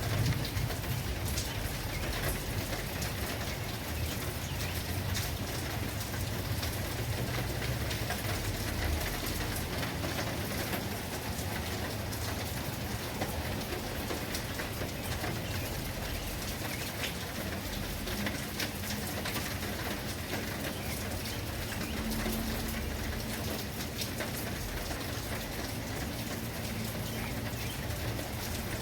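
Steady heavy rain falling, a dense even hiss with many individual drops pattering on surfaces.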